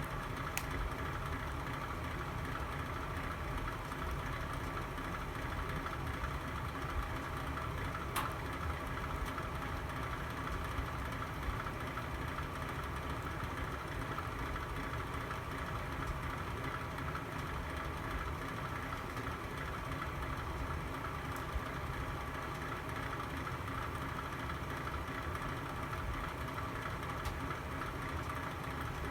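Fire burning in a home fireplace: a steady low rumble, with a few sharp crackles about half a second in and about eight seconds in.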